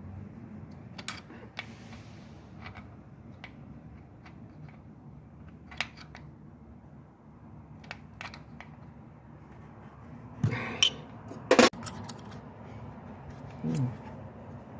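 Hand tools working on an engine's valve gear: scattered light metallic clicks and scrapes, with a few louder clanks about ten and a half to twelve seconds in, over a low steady hum.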